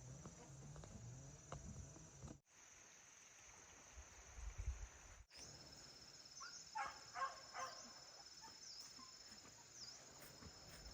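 Near silence: faint outdoor ambience with a steady high insect trill running throughout, broken by two abrupt cuts. A few faint, short animal squeaks come about seven seconds in.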